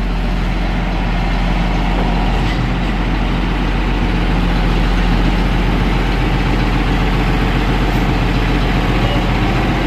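John Deere 8640 tractor's six-cylinder turbo diesel running steadily with an even low hum; the exhaust leak has been repaired, so it runs smooth.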